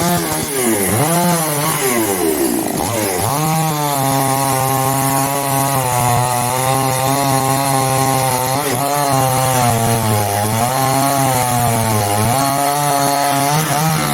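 Chainsaw revving up and down a few times, then running at steady high speed as it cuts through the wood of an Indian gooseberry (nelli) tree, its pitch dipping briefly now and then under load.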